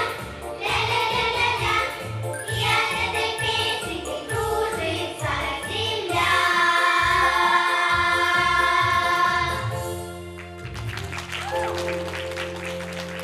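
Cheerful song sung by a choir with accompaniment, ending on a long held final note about six seconds in. After it breaks off at about ten seconds, a held accompaniment chord rings on under clapping.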